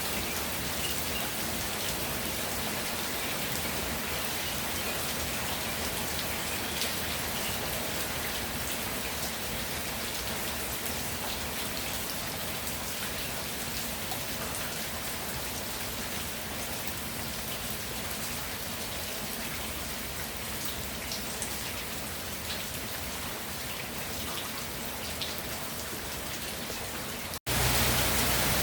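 Steady rainfall with scattered individual drop hits. Near the end it cuts out for an instant and comes back louder, with more low rumble.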